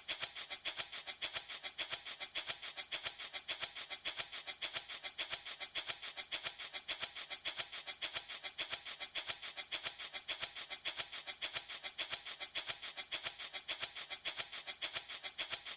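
Handmade wooden baby rattle shaken steadily in a fast, even rhythm of about four to five shakes a second, a dry, high-pitched rattling of small beads.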